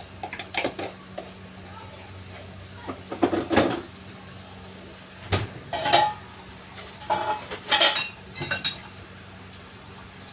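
Kitchen utensils clinking and scraping against dishes in several short bouts, over a steady low hum.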